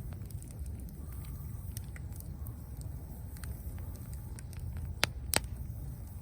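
Bonfire burning over a low steady rumble, with scattered sharp crackles and two loud pops about five seconds in.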